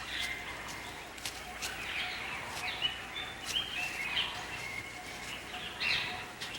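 Outdoor wildlife ambience: a steady low hiss with scattered short bird chirps throughout.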